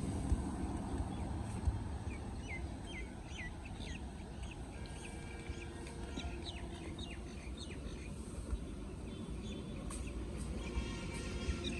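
Small birds chirping, a quick series of short falling calls over a steady low background rumble.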